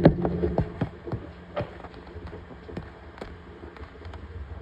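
A series of irregular sharp clicks and taps, the first and loudest right at the start, then fainter ones every half second or so.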